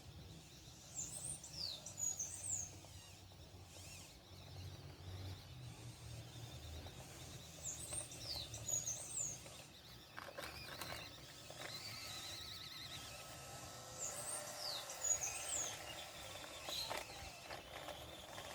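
A songbird repeats the same short phrase of quick, high chirps three times, about every six to seven seconds, over faint outdoor background noise.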